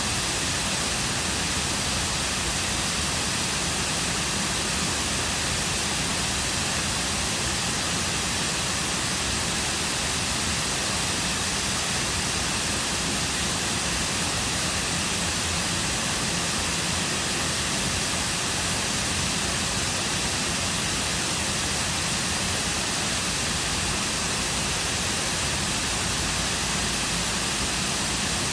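Waterfall cascading into a lake: a steady, unbroken rush of falling water.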